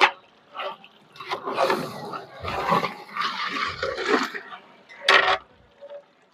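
Water being poured into a large deg of fried qorma masala, hissing and sizzling for about three seconds as the gravy is loosened.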